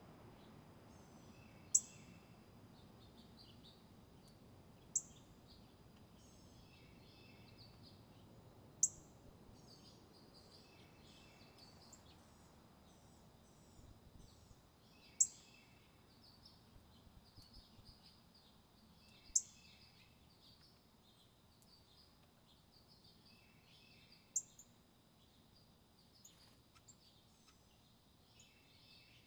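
Small songbirds calling: six sharp, high chip notes a few seconds apart stand out over softer, quicker twittering and chatter.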